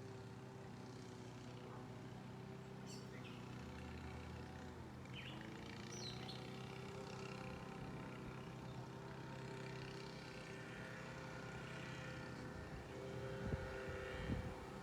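A steady mechanical hum with a few short bird chirps, and two sharp knocks near the end.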